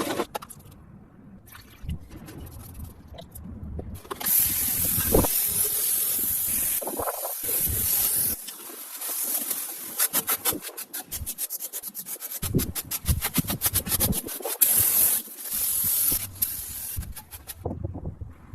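Spraying: loud bursts of high-pitched hiss starting about four seconds in, turning into a rapid fluttering spray in the middle, with a few softer scrapes and knocks around them.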